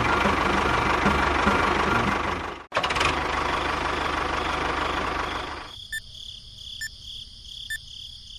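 A small motor running with a rough, rattling sound, broken by a sudden cut and resuming. Near the end the low rumble drops away, leaving a high whine with a click about once a second.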